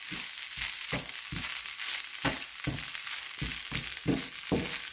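Crumbled idli with onions and chillies frying in a nonstick pan with a steady sizzle. A wooden spatula stirs and pushes it around in regular strokes, about two or three a second.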